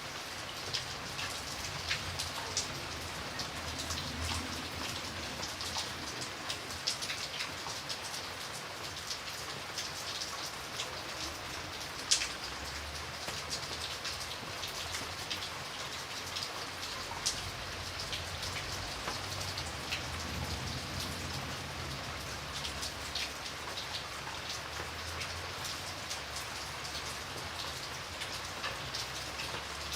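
Steady rain falling, with many individual drops ticking on a hard surface and one sharper drop about twelve seconds in.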